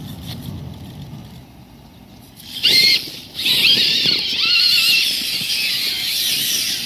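Electric motor and gear train of an RC scale trail truck whining, starting about two and a half seconds in, its high pitch wavering up and down with the throttle.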